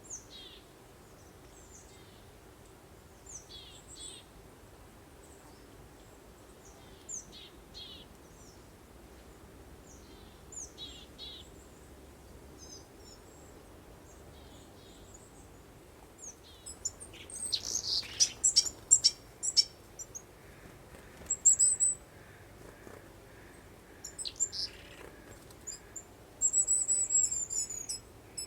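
Songbirds chirping: scattered short high calls at first, then a busier flurry of chirps past the middle, and a loud, rapid high trill near the end, over a faint steady background hiss.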